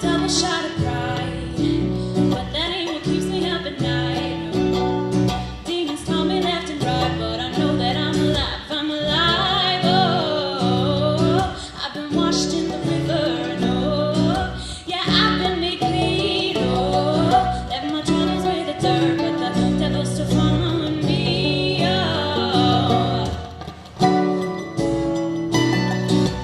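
Live acoustic band playing a song: strummed acoustic guitar and other plucked strings accompanying a woman's lead singing, with the voice carrying the melody through much of it.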